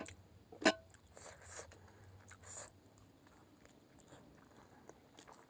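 Mouth sounds of someone chewing food, with a sharp click just under a second in and a few soft bursts after it, then mostly quiet.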